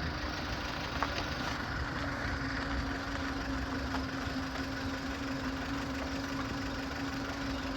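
Safari vehicle's engine idling steadily, a low rumble with a steady hum.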